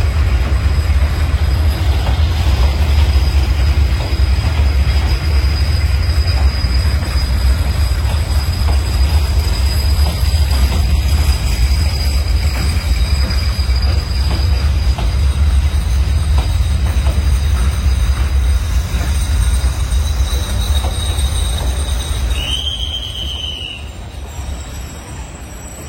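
A vehicle running with a steady deep rumble and several thin, high squealing tones held above it; it eases down over the last few seconds, with a short bending squeal about 22 seconds in.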